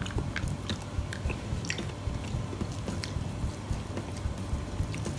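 Close-miked chewing and biting while eating, with small irregular clicks throughout.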